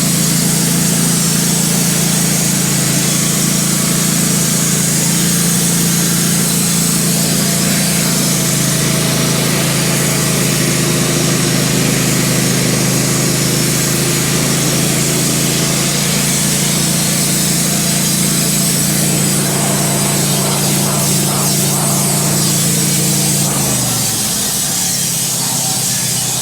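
Wood-Mizer LT15 band sawmill cutting through a maple log, its engine running steadily under load with the saw's hiss over it. About 24 seconds in, the engine note drops as it slows off the cut.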